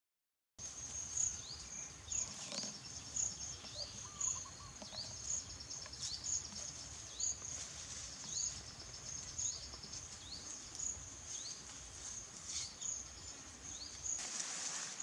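Outdoor ambience with a high-pitched animal call repeating about once a second, each call with a short rising chirp, over faint background noise that grows louder near the end.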